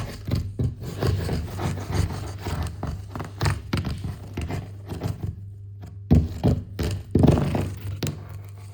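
Irregular knocks, thunks and scrapes of hard plaster scenery being chipped and broken up on a model railway baseboard, with a quieter pause about two-thirds of the way through.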